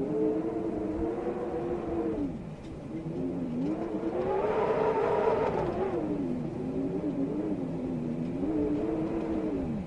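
Storm wind howling: a wavering, moaning tone that rises and falls with the gusts over a rushing noise. It dips about a quarter of the way in and swells loudest about halfway through.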